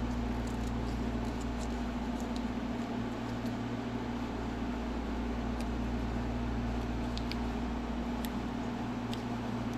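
Steady mechanical hum with a low drone, with a few faint, light clicks scattered through it.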